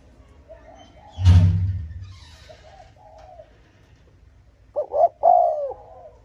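Spotted dove cooing, with a short loud group of bending coo notes near the end. A loud low thump comes about a second in.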